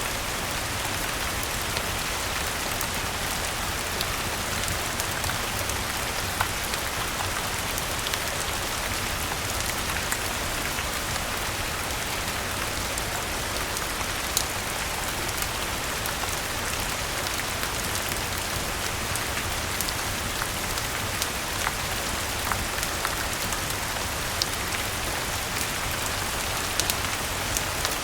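Steady rainfall, an even hiss with scattered sharp ticks of drops striking.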